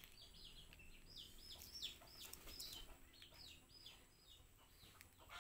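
Faint bird chirping: a long run of short, high chirps, a few each second, with a brief pause near the end.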